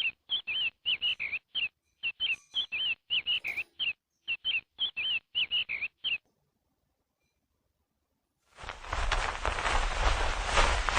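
A bird chirping in a fast series of short, bent notes, about three a second, for roughly six seconds, then stopping. After about two seconds of silence, a loud steady rushing noise begins near the end.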